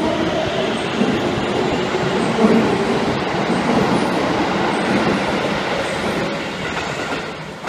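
Electric commuter train running along a station platform: a steady, loud rumble of wheels on the rails.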